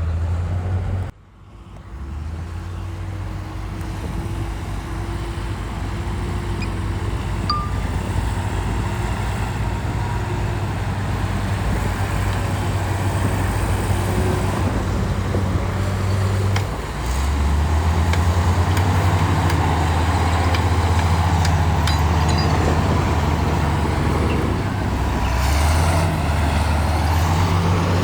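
Heavy diesel earthmoving machinery running steadily, with a brief sudden drop in sound about a second in. The engine note grows louder and fuller about two-thirds of the way through, as if under heavier load.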